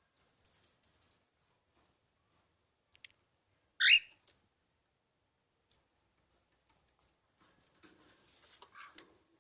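Pearl cockatiel giving one short, loud chirp about four seconds in, between soft scattered clicks; near the end comes a longer stretch of rustling and scratching.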